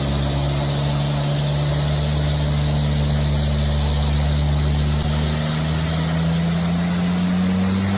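Heavy truck engine running steadily, its pitch rising slowly over the last few seconds.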